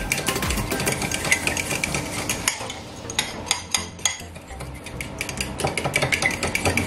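A utensil stirring a thin buttermilk and hot-sauce marinade in a ceramic bowl, with quick clinks and scrapes against the bowl. The stirring eases off in the middle and picks up again near the end.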